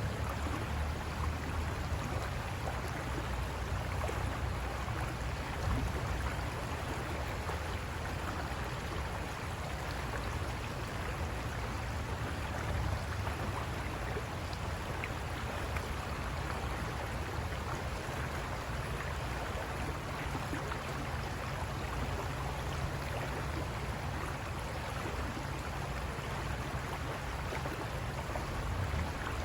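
River water rushing over rocks: a steady wash of noise with a deep rumble underneath.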